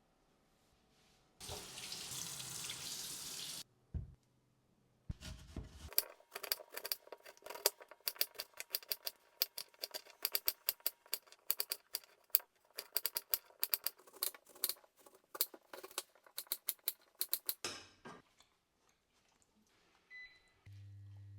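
Kitchen tap running for about two seconds, followed by a single knock and then a long run of quick, irregular sharp clicks and taps of kitchen work. Near the end a steady low hum starts.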